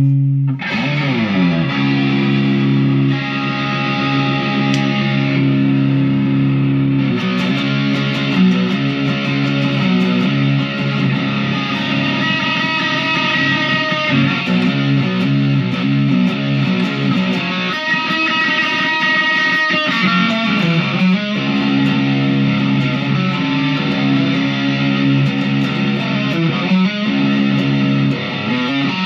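Chapman SAR63 semi-hollow electric guitar played through an amp with distortion and effects: ringing held chords and riffs, with notes sliding in pitch about half a second in and again around twenty seconds in.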